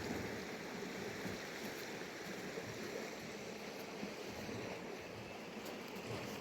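A mountain river running steadily, a constant rush of flowing water.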